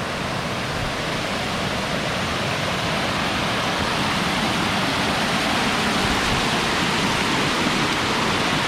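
Waterfall rushing, a steady noise that grows slightly louder.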